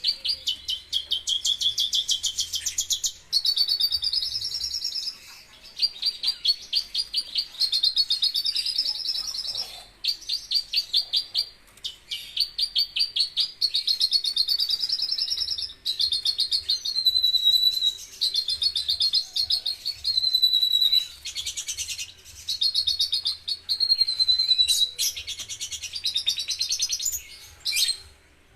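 Javan bush lark (branjangan) singing continuously in fast, high-pitched trills of rapidly repeated notes, mixed with phrases that sweep up and down. Each phrase lasts a second or two, with brief pauses between them.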